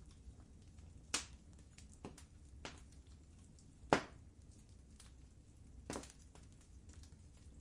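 Wood fire in a fireplace crackling: five sharp pops, the loudest about four seconds in, with fainter ticks between them over a low steady rumble.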